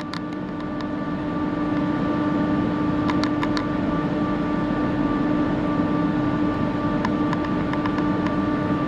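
Steady hum of workshop machinery, with a few short clicks about three seconds in and again near the end.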